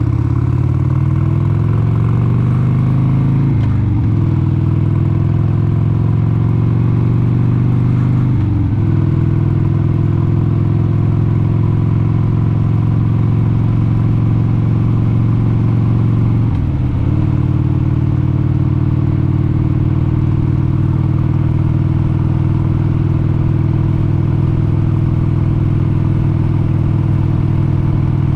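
1996 Harley-Davidson XLH883 Sportster's air-cooled 883 cc V-twin under way, pulling up through the gears. The engine pitch climbs, then drops with an upshift about 4 seconds in and again about 9 seconds in. A third upshift comes about 17 seconds in, after which it runs at a steady cruising speed.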